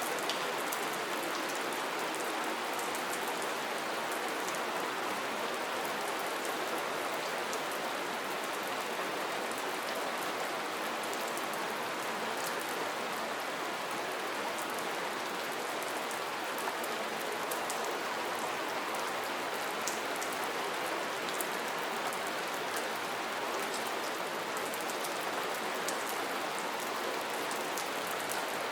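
Steady soft rain falling: an even hiss with a scatter of small, sharp drop ticks throughout.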